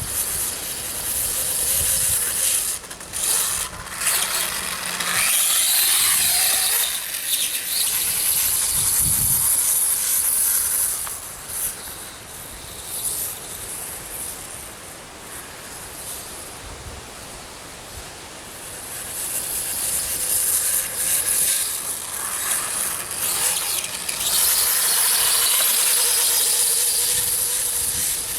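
Electric RC dirt bike running: a brushless motor whine rising and falling under a strong hiss. The sound is loud for the first ten seconds or so, quieter in the middle, and loud again for the last several seconds.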